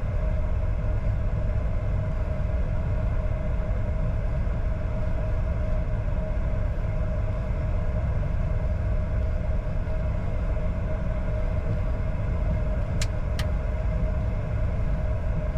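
Steady cabin noise in a Bombardier Challenger 605's cockpit while taxiing: a low rumble with a constant hum from its twin turbofan engines at idle. Two sharp clicks come close together about 13 seconds in.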